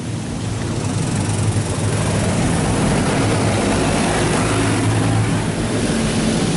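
Oasis XP touchless car wash spraying water onto the car, heard from inside the cabin as a steady rushing noise over a low machine hum. It grows louder over the first two seconds, then holds steady.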